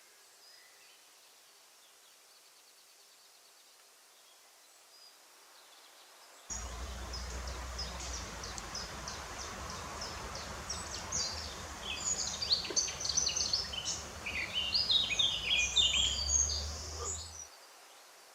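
Birds singing outdoors. Faint at first, then loud and busy once a steady low wind rumble on the microphone starts suddenly about six seconds in. The rumble and song cut off abruptly near the end.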